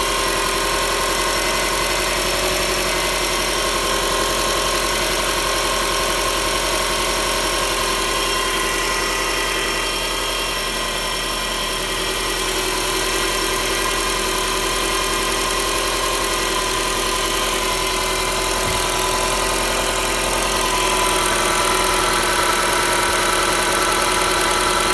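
Subaru EL15 flat-four engine running warm at idle with a muffled knock from around the fourth cylinder, which the owner suspects comes from worn bearing shells. The engine note rises slightly near the end.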